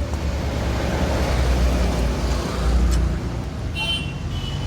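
A motor vehicle's engine running, a steady low rumble with a brief high-pitched tone about four seconds in.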